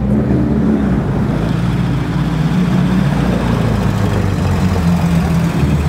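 Vintage Porsche 356 Speedster's air-cooled flat-four engine running steadily at low revs as the car moves slowly by.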